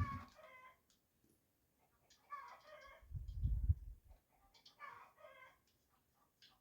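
A chicken clucking in short calls, three times about two and a half seconds apart, with a brief low rumble a little past the middle that is the loudest sound.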